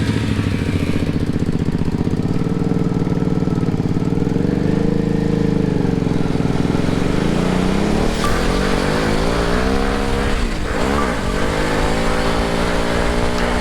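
Off-road vehicle engine running under changing throttle as it is driven, its pitch rising and falling, dropping sharply and picking back up about ten seconds in.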